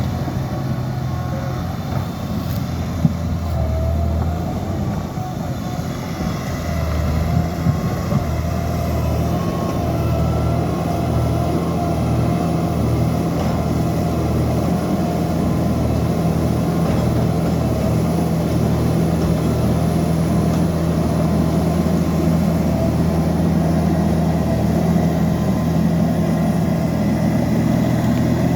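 Liebherr PR 754 crawler dozer's diesel engine running steadily, with a thin whine above the engine note and a few sharp knocks about three seconds in and again around seven to eight seconds.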